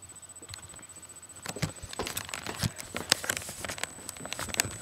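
Irregular rustling with many small clicks and crackles, starting about a second and a half in.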